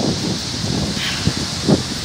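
Skógafoss waterfall, heard close up: a steady, loud roar of falling water, with wind buffeting the microphone.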